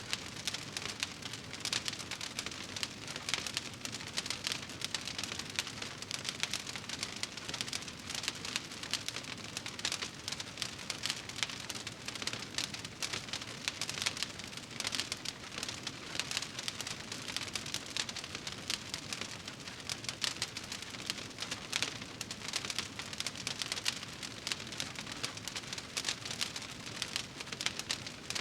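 Wood fire burning in a fireplace, crackling with a dense, steady run of small clicks and pops.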